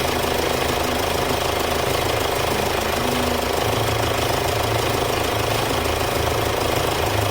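Hyundai Santa Fe CM diesel engine idling steadily.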